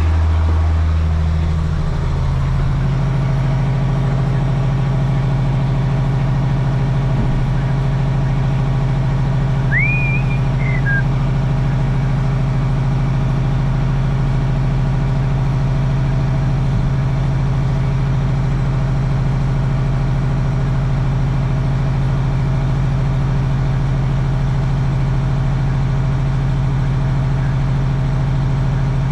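1995 Ford L8000 diesel truck engine idling steadily while it warms up. About two seconds in, its pitch steps up and then holds. A brief high chirp sounds once about ten seconds in.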